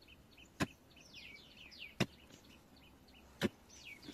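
Three sharp strikes about a second and a half apart, a hoe chopping into the ground to dig out a wild yam. Small birds chirp in quick descending notes between the strikes.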